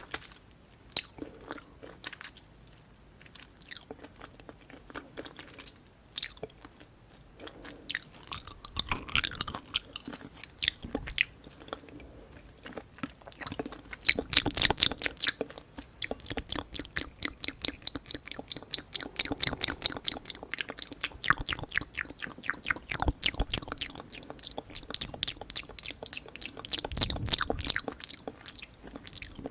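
Close-miked chewing of food: scattered wet mouth clicks at first, then from about halfway a fast, steady run of short chewing smacks.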